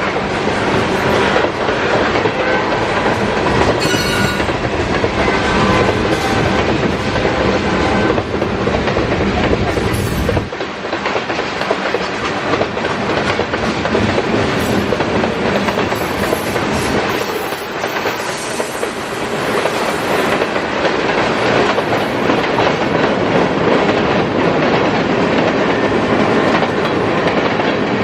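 Freight train cars rolling past close by, a steady loud rumble with the steel wheels clattering over the rail joints.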